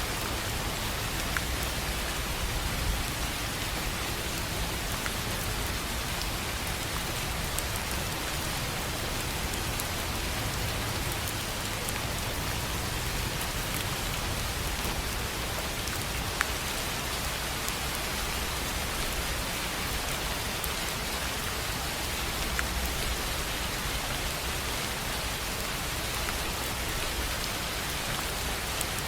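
Steady rain on a tin roof: an even hiss with scattered sharper drop ticks, one a little louder about halfway through.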